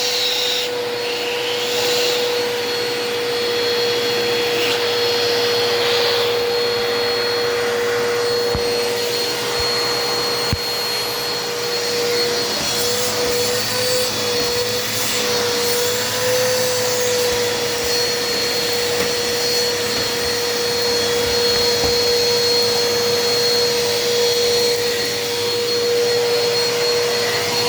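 Eureka Power Speed upright vacuum cleaner running steadily, its motor giving a constant whine over a rush of suction air; the pitch wobbles for a few seconds about halfway through, then settles again.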